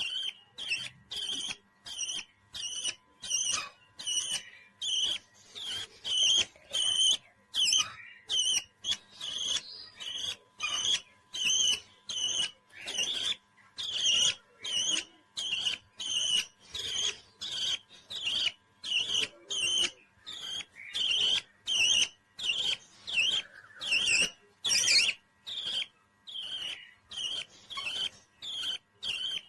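Parrot chirping in short, high calls repeated about twice a second in a steady run.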